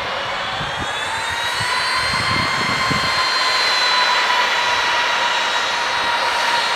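Jet aircraft engines with a rushing roar and a high whine that rises in pitch over the first two seconds, then holds and eases slightly as the sound peaks about four seconds in.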